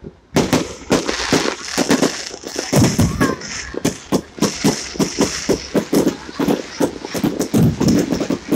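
Fireworks going off in a dense, rapid volley of bangs and crackles, several a second, with barely a pause.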